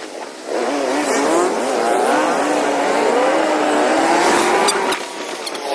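Motorcycle engine running on the road, its pitch rising and falling with the throttle. It dips briefly in the first half-second and again near the end.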